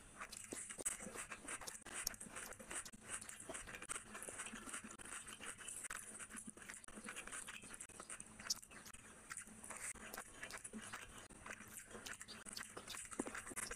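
Close-miked chewing and wet mouth sounds of a person eating rice and curry with the hands, including bites of raw onion: a steady run of small clicks, smacks and crunches.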